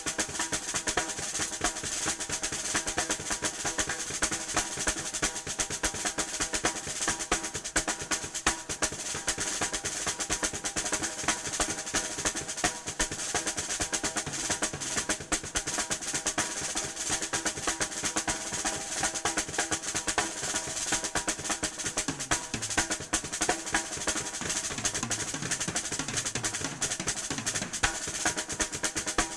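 Drum kit solo: fast, dense rolls of snare and tom strokes with no pause, and bass drum strokes coming in more strongly near the end.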